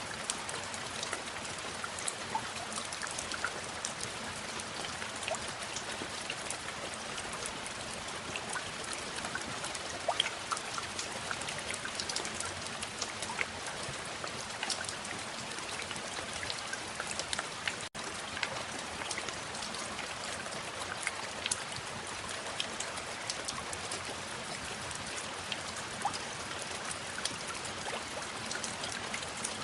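Steady rain falling, with many separate drops ticking throughout. The sound cuts out for an instant a little past halfway.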